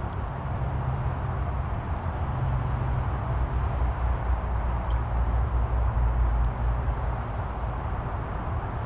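Short, high-pitched chirps of small songbirds, the clearest a quick burst about five seconds in, over a steady low rumble that is louder than the chirps.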